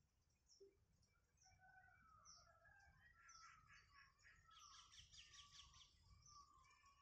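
Faint chirps and whistled trills of small birds, with a fast run of chattering notes in the middle, over a low rumble.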